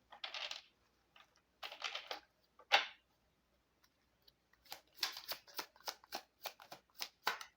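A deck of tarot cards shuffled by hand: a few short swishes, then a quick run of card flicks and snaps in the second half.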